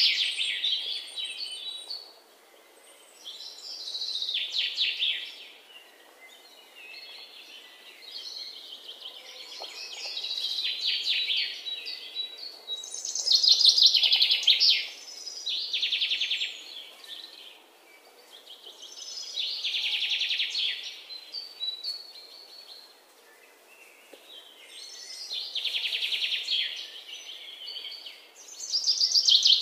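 Birds singing: high, trilling chirp phrases that swell and fade every few seconds.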